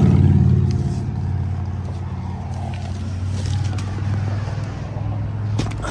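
Ford F-150's 2.7 EcoBoost twin-turbo V6 idling steadily, with a couple of sharp clicks near the end.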